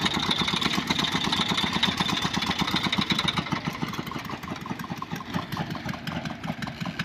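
Combine harvester engine running steadily with an even beat, a high whine over it that fades out about three and a half seconds in.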